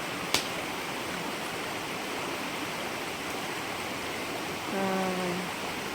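Steady rushing of flowing stream water. There is a sharp click just after the start and a brief hummed voice sound about five seconds in.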